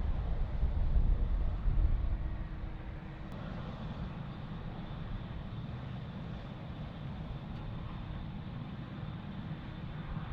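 Jet airliner engines rumbling at a distance with a faint steady whine. The rumble eases about two seconds in, then holds level.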